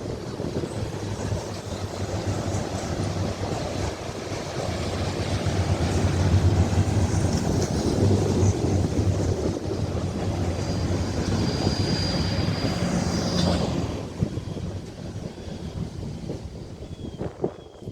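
Norfolk Southern train rolling past: a steady low rumble with rail noise that grows loudest partway through and falls away about 14 seconds in. A thin, high-pitched wheel squeal rises over it for a few seconds before the fade, and a few sharp clicks come near the end.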